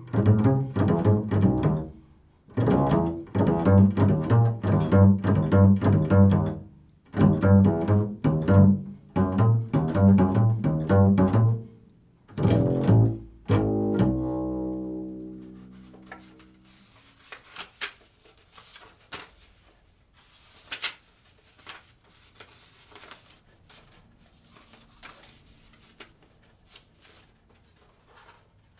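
Improvised bass playing in quick runs of plucked notes, ending about 14 seconds in on a note left to ring out and fade. After that only faint scattered taps and clicks.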